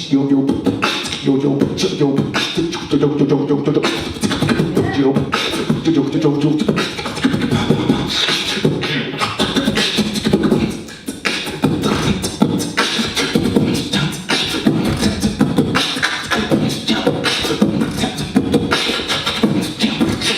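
Live beatboxing into a microphone: a fast stream of vocal drum sounds, with a pitched vocal line layered over it for much of the time.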